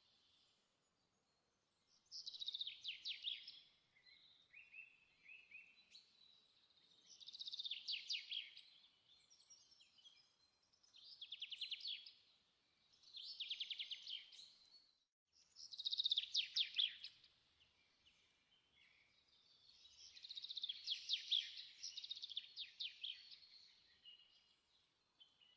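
A small songbird singing faint, high, trilled phrases of a second or two each, repeated every couple of seconds with short pauses between.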